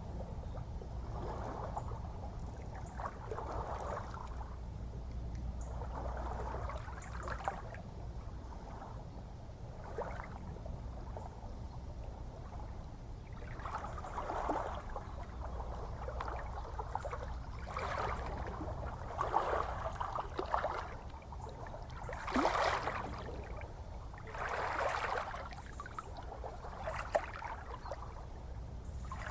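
Gentle ocean waves lapping and washing in, a small splash or wash every two to four seconds over a steady low rumble of the sea.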